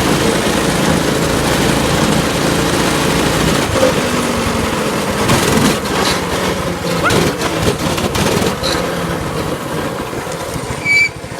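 Small pull-start single-cylinder engine of a mini dirt bike running under throttle as it is ridden, its pitch rising and falling, with a few knocks and rattles in the middle. Near the end it drops to a lower, lumpy idle.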